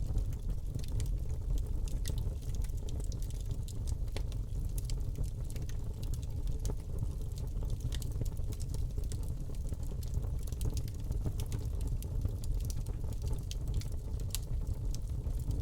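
Wood fire crackling in a fireplace: many scattered sharp snaps and pops over a steady low rumble of the flames.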